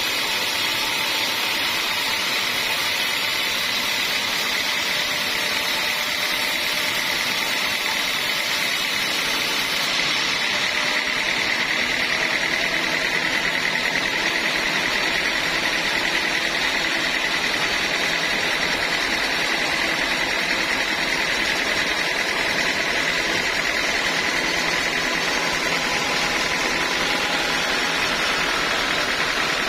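Sawmill saw running through a teak log: a steady machine noise with a high whine that grows stronger about ten seconds in.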